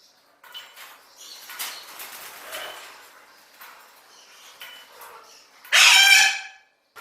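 Caged parrots calling, a scatter of softer chirps and squawks, then one loud harsh squawk just under a second long near the end.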